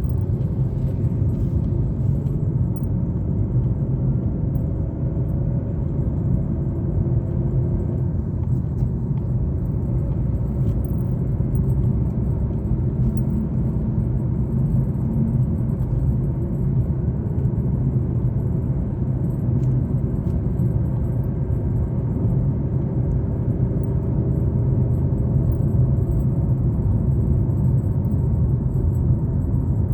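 Car driving along a highway: a steady low rumble of engine and tyres on the road, with small rattles and clicks scattered through it.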